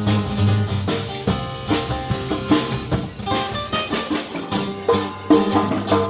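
Live blues band playing: guitar over a drum kit.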